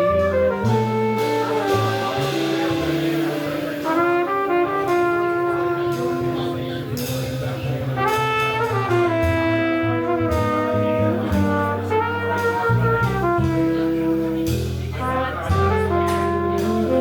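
Live jazz band playing: a horn carries the melody, moving from note to note over bass and drums with cymbal strokes.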